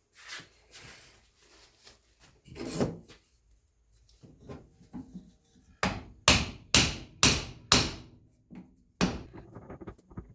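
Scraping and handling noise, then a quick run of five sharp knocks, about two a second, and one more knock a second later.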